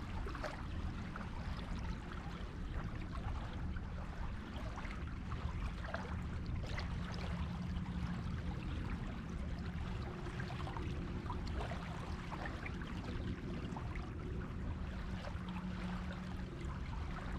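Sea surf washing on a beach: a continuous rush of water with fine crackling fizz, over a steady low hum.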